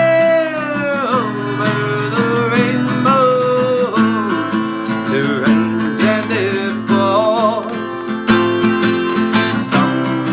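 Music: acoustic guitar strummed in a steady rhythm, with a gliding, wavering melody line over it.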